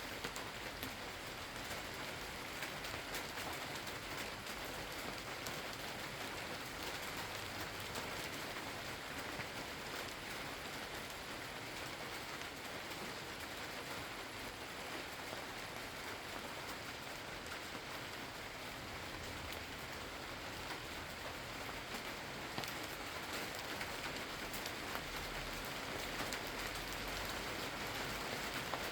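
Steady rain falling on surfaces, a continuous hiss with many fine drop ticks, growing slightly heavier near the end.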